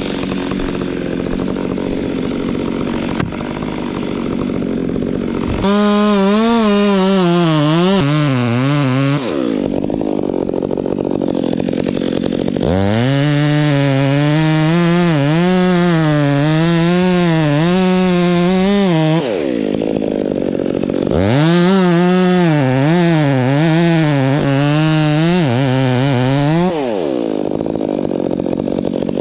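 Chainsaw run up to full throttle three times, its pitch wavering up and down under load while cutting. Each cut ends with the engine speed falling back to idle, and the saw idles between cuts.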